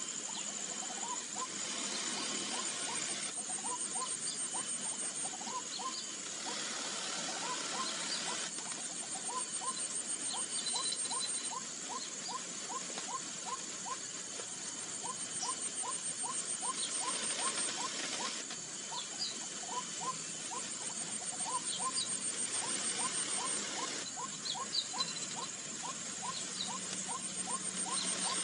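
White-breasted waterhen calling: a long run of short rising notes, about two a second, over a steady high insect drone that pulses on and off every few seconds.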